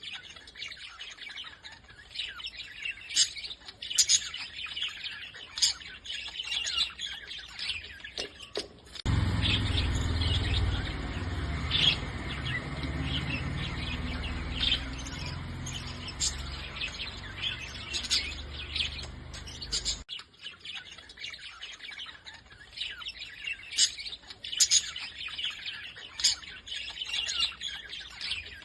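Small birds chirping: many short, sharp calls overlapping throughout. A low, steady rumble joins in about a third of the way through and stops about two-thirds through.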